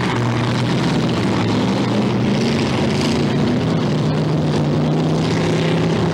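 Several demolition derby car engines running loudly together, a steady roar whose pitch wavers up and down as the cars rev.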